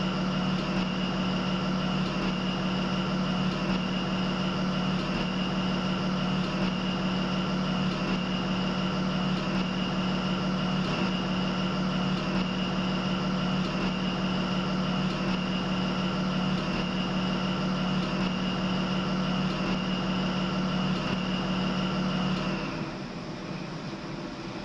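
Class 43 HST power car running at speed, heard from inside the driving cab: a steady diesel engine note under a rumble of running noise. Near the end the engine note stops abruptly and the sound drops to a quieter rush of running noise.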